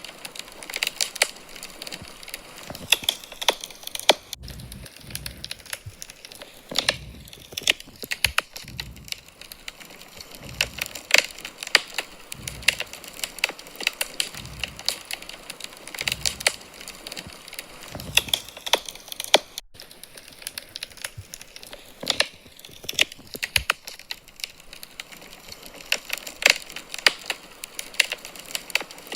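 Wood fire in a fireplace crackling, with irregular sharp pops and snaps.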